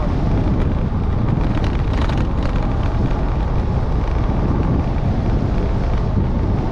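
Wind buffeting the microphone of a rider on a moving scooter: a steady, loud rushing noise, heaviest in the low range, with no clear engine note standing out.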